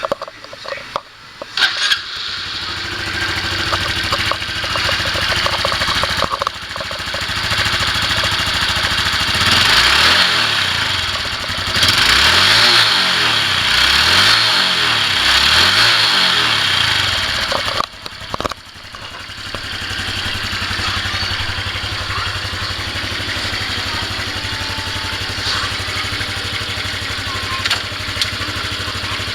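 Honda Cross Cub 110's JA10E 109 cc air-cooled single-cylinder engine starting and running. Between about ten and seventeen seconds in it is revved up and down several times; near eighteen seconds it drops out briefly, then runs again at a steady idle.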